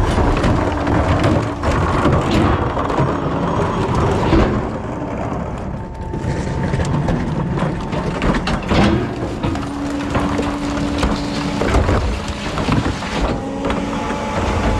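Rear-loader recycling truck at work: its engine running under load with loose clattering and crunching of recyclables and metal. A steady hydraulic-sounding whine comes in twice in the second half.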